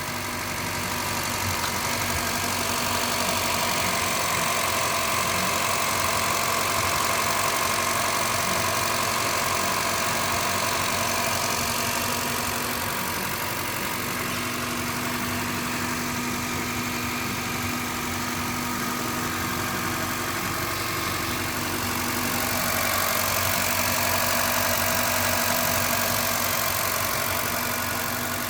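2012 Honda City petrol/CNG car's four-cylinder engine idling steadily.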